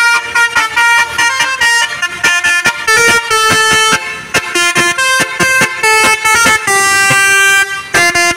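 Bus's multi-tone musical air horn (an Indonesian 'telolet' horn) playing a loud, rapid tune of short honks and longer held notes that keep changing pitch.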